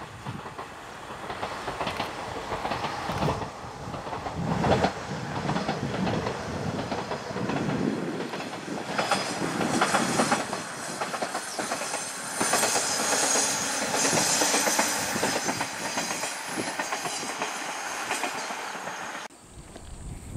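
A short two-car train running past on its track, the wheels clattering over the rails, loudest as it goes by in the middle. The sound cuts off abruptly near the end.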